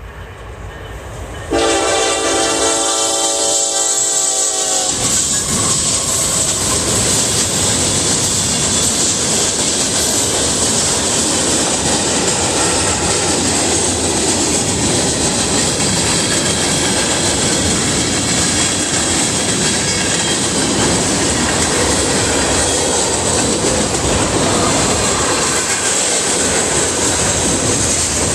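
A Nathan K5LLA five-chime locomotive air horn sounds one long chord, starting suddenly about a second and a half in and cutting off a few seconds later. Then a freight train of tank cars and covered hoppers rolls steadily past, its wheels rumbling and clacking over the rail joints.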